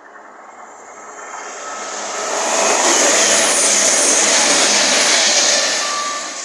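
East Midlands Railway Class 222 Meridian diesel-electric multiple unit passing through a station at speed. Its rushing noise builds, stays at its loudest for about three seconds, then fades away near the end.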